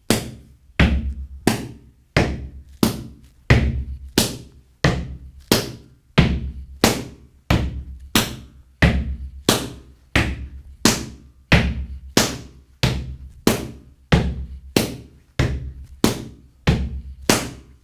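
Hands slapping the outer sides of the legs in a gumboot dance exercise, in a steady rhythm of about three slaps every two seconds.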